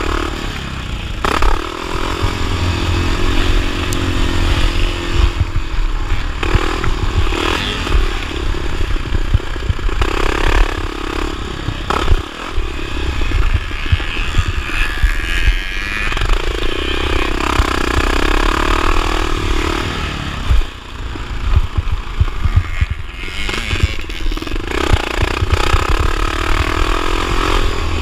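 1979 Honda XR500's single-cylinder four-stroke engine racing over a motocross track, revs rising and falling as the throttle is worked, with rattling and scraping from the bike over rough ground. The engine briefly drops off about twenty seconds in, then picks up again.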